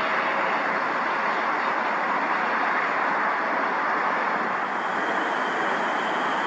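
Jet airliner engines giving a steady rushing noise, with no rise or fall in level.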